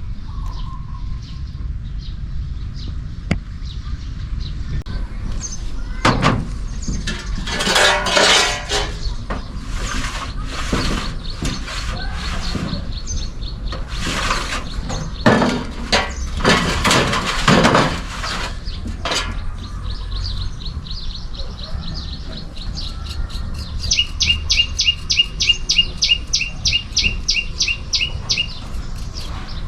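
A small bird calls in a rapid, even series of high chirps, about four a second, loudest over the last few seconds. Earlier, several loud rustling or scraping noises come and go in the middle stretch.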